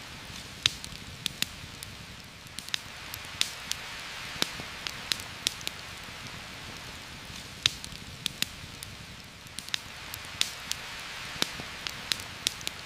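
Steady heavy rain hissing, with a campfire crackling and popping over it in sharp, irregular snaps.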